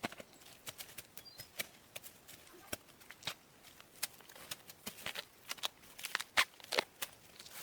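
Irregular light knocks and clicks, a few a second, that grow louder and more frequent in the second half.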